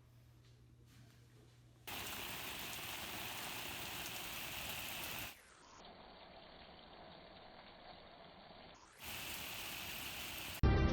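A steady rushing noise in two loud spells: it cuts in sharply about two seconds in and stops suddenly around the middle. A fainter, duller rush fills the gap before the loud noise returns near the end.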